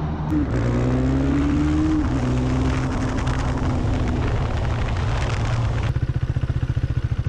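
Vehicle engine running with a steady drone and a slowly falling tone. About six seconds in it switches abruptly to a motorcycle engine idling with a fast, even pulse.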